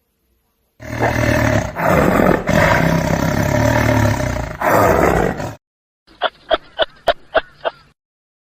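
An animal's long, loud, rough roar lasting about five seconds, followed after a short pause by a quick run of about seven short, sharp calls.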